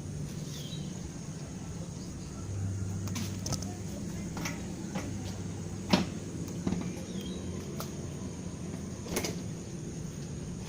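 A low, steady engine-like hum with several sharp knocks and clicks scattered through it, the loudest about six seconds in.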